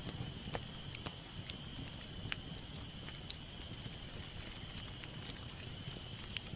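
Campfire crackling: burning wood giving irregular sharp pops and snaps, over a low rumble and a faint steady high-pitched whine.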